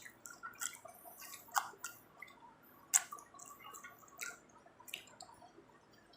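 Close-up eating sounds of pizza being chewed: scattered short mouth clicks and smacks, the loudest about three seconds in.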